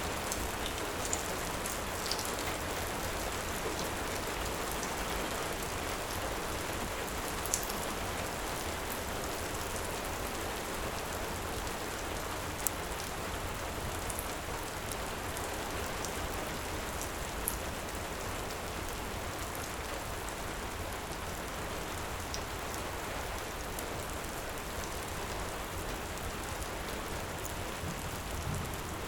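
Heavy rain falling steadily, with a few isolated sharp clicks scattered through the first two-thirds.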